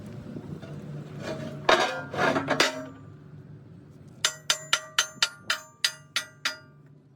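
A short burst of loud clattering, then a quick run of about ten hammer blows on metal, roughly four a second, each ringing briefly.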